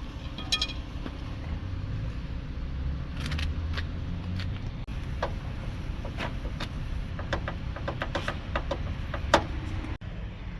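Minivan noise heard from the cabin: a steady low rumble with many scattered light clicks and rattles, one sharper click near the end.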